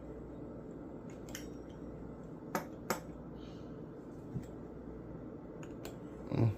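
Kitchen counter work: a few short sharp clicks and taps, then a louder knock near the end, over a steady low hum.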